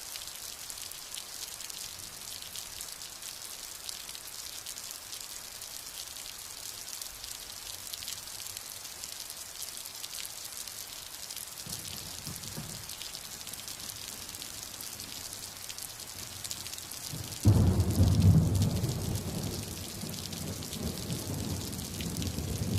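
Steady rain with a constant high hiss of drops; a faint low rumble of thunder comes about halfway through, then a sudden loud thunderclap near the end that rolls on as a low rumble, slowly fading.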